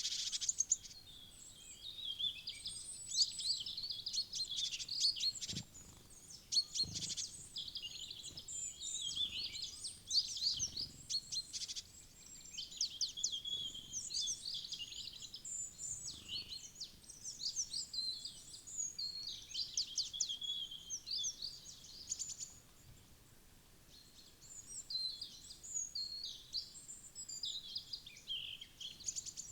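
Small wild songbirds chirping and twittering almost without pause, many quick high calls overlapping. The calls thin out briefly about three quarters of the way through, then pick up again.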